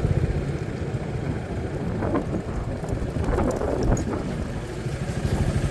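Engine of the ridden vehicle running slowly and unevenly, with wind buffeting the microphone and a few light knocks.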